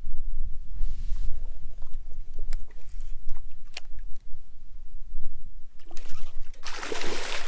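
Strong wind buffeting the microphone, a constant low rumble, with a few sharp clicks in the middle. Near the end comes a loud burst of splashing water.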